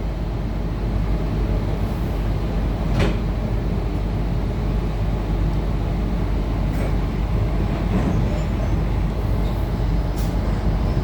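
Steady running rumble heard from inside the passenger car of an A Goninan & Co Tangara electric multiple unit, with wheels on rails and one sharp click about three seconds in.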